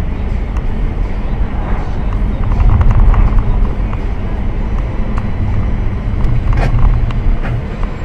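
A car driving: steady engine and road rumble, swelling about three seconds in, with a few light clicks and a sharper knock near the end.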